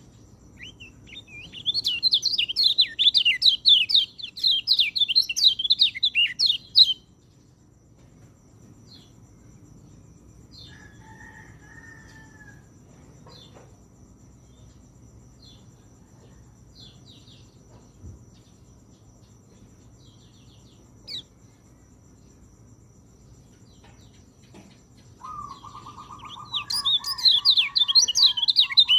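Orange-headed thrush (peleci) song: a long burst of rapid, high chattering notes, then a lull with only faint scattered calls, then a lower trill that leads into a second burst of the high chattering near the end.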